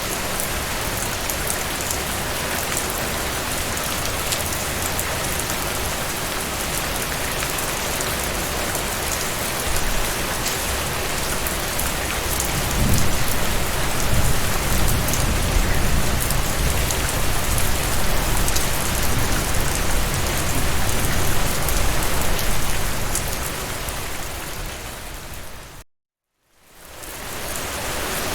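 Steady heavy rain falling on a surface, with a low rumble swelling underneath through the middle. Near the end the rain fades out to silence for about a second, then fades back in.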